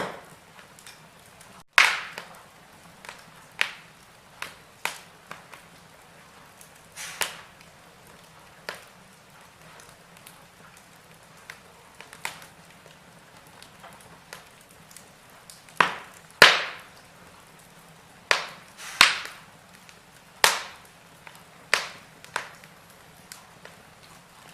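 Wood fire crackling in a fireplace: irregular sharp pops and snaps over a faint low hiss, with a run of the loudest pops about two-thirds of the way through.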